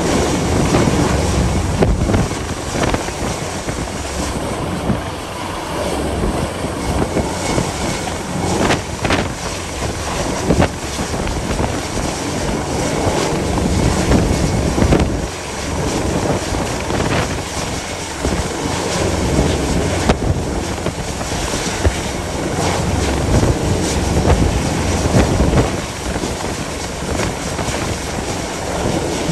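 Force 9 gale-force wind blowing over the microphone: a loud, unbroken noise that rises and falls in gusts.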